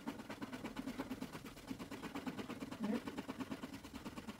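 Quick, even back-and-forth scratching on a small paper card, many strokes a second: a try-your-luck scratch card being scratched off.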